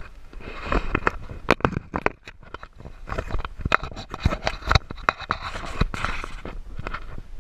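Board sliding down loose volcanic gravel, scraping and crunching, with many sharp clicks of small stones and a steady low rumble underneath. It drops quieter briefly about two seconds in, then picks up again.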